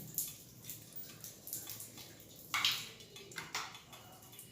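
Water trickling and splashing out of an electric geyser's tank through the loosened heater-rod fitting, in irregular splashes with one longer, louder splash about two and a half seconds in.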